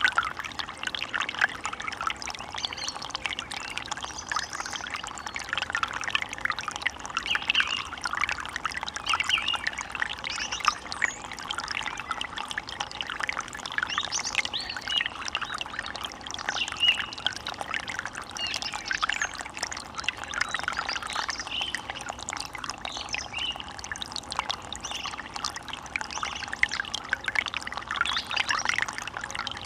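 A small forest stream running, with a steady, busy babbling and trickling.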